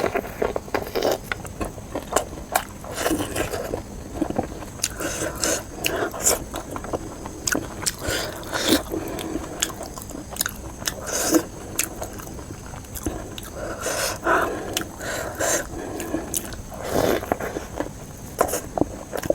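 Close-miked eating: a person biting and chewing food, with irregular wet mouth clicks and smacks throughout.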